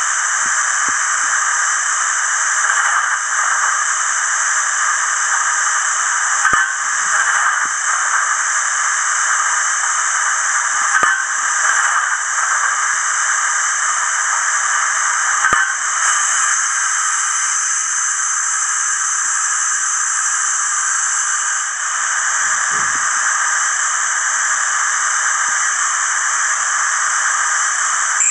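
Hornby HM7000 Bluetooth sound decoder in a Bachmann V2 steam locomotive model, playing a steady steam hiss through its small onboard speaker, with a few faint clicks. The hiss brightens about sixteen seconds in and settles back about six seconds later.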